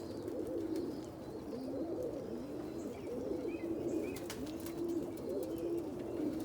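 Domestic pigeons cooing, several low calls overlapping without a break, with a few faint clicks.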